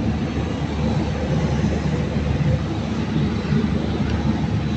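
A steady low rumble of background machinery running, with no distinct knocks or clicks.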